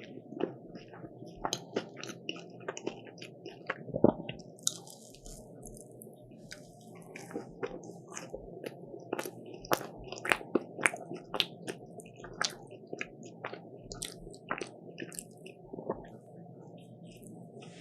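Close-miked eating of croffles (croissant waffles): irregular crisp bites and crunches mixed with chewing, the sharpest bite about four seconds in.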